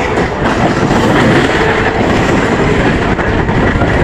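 Electric multiple-unit (EMU) local train running on the rails: a loud, steady rumble with wheel clatter.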